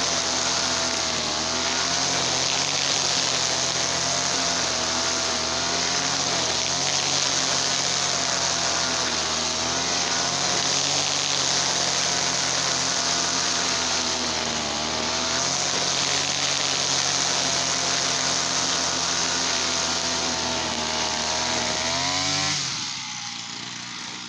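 Easyman TL33 two-stroke brush cutter engine running at high speed, its pitch wavering slightly as the throttle is held. Near the end it is throttled back and the engine note falls and quietens.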